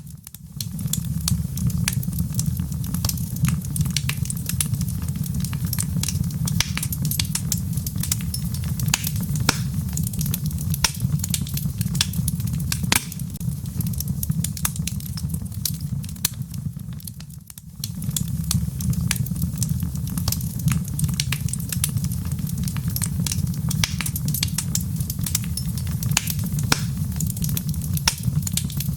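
Wood fire crackling with dense, irregular pops and snaps over a steady low rumble, with rain pattering behind it. The whole sound dips briefly at the start and again about two-thirds of the way through.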